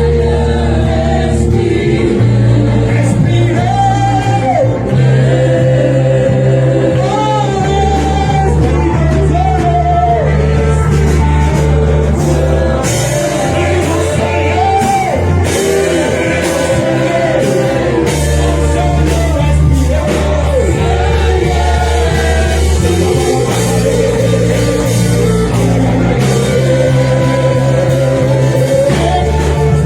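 Live worship music with singing over a band, with sustained bass notes and chords beneath the sung melody.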